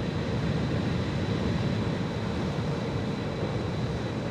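Wind and road noise on the rider's microphone while the Energica Experia electric motorcycle is under way, a steady low rush with no engine note and a faint steady high-pitched whine.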